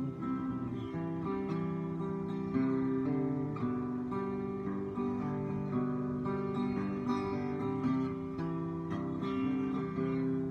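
Acoustic guitar strumming chords in an instrumental break of a country song, with no singing.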